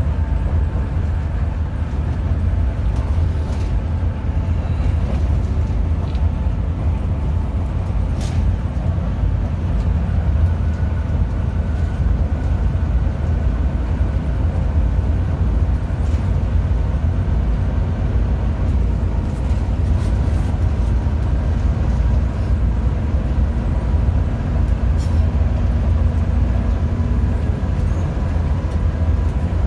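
Hino RM 280–powered coach on the move: a steady low rumble of engine and road noise, without let-up, with a few faint clicks and rattles.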